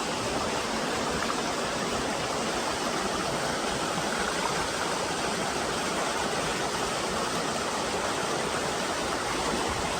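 Waterfall splashing down into a mountain stream: a steady, even rush of falling water.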